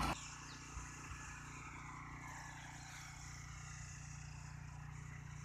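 Power tiller engine running steadily, a low even hum.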